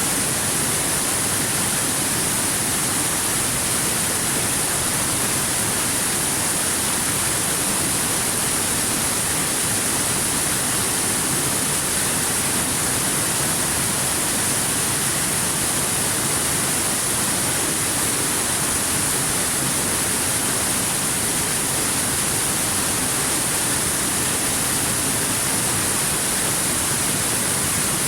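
A waterfall rushing steadily: an unbroken, even hiss with a bright high edge and no separate splashes or other sounds.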